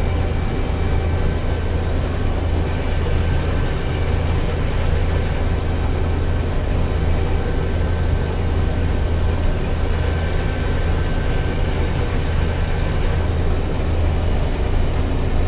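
Combine harvester running at full throttle with its separator and header engaged, heard from inside the cab as a steady low drone with a faint whine above it, while the header cuts soybeans.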